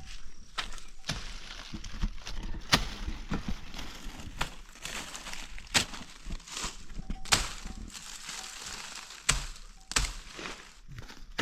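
Irregular sharp knocks and cracks, roughly one a second, over a steady hiss.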